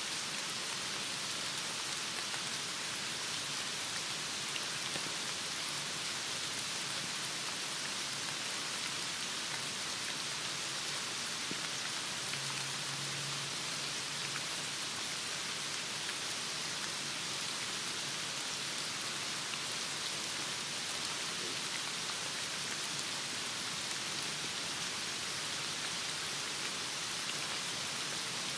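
Heavy rain falling steadily, an even hiss of many drops on a surface.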